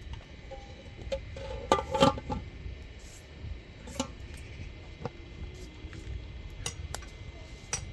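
Scattered clinks and knocks of dishes or cookware being handled, with a brief clattering cluster about two seconds in and single clinks after it, over a steady low rumble.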